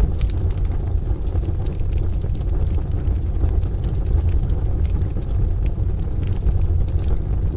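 Wood fire crackling in a stove, with scattered sharp pops and snaps over a steady low rumble.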